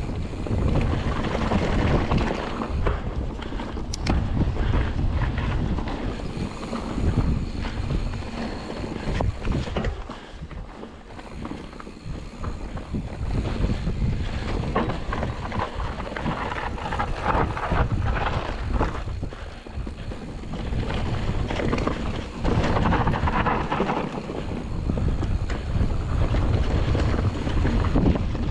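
Mountain bike descending a rough trail at speed: wind buffeting the action camera's microphone over the constant rattle and crunch of the bike and its tyres on rocky ground. The noise eases briefly about ten seconds in.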